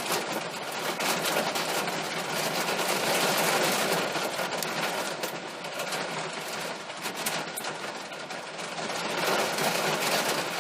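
Hail hammering on a car's roof and glass, a dense rapid clatter of countless impacts heard from inside the car.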